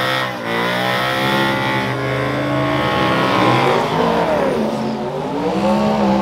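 Pickup truck engines running hard at full throttle in a drag race, their pitch climbing, dropping and climbing again several times.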